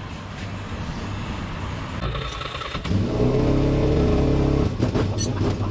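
A motorbike engine running close by, much louder for a couple of seconds about halfway through, followed by a quick run of sharp clicks near the end.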